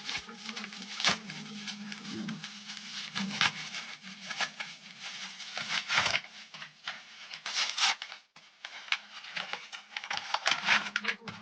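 Dremel rotary tool running with a steady hum while its bit grinds carbon deposits off a motorcycle cylinder head, with short irregular bursts of scraping as the bit bites into the deposits.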